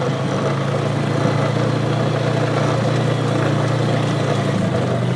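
Four-wheeler (ATV) engine running steadily, heard close up from a phone mounted on the front of the machine, its level picking up slightly over the first couple of seconds as it moves off along the track.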